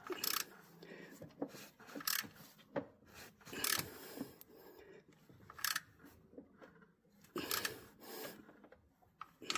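Irregular short scraping and rubbing strokes with light clicks in between, about seven strokes, from hand work with tools on metal parts.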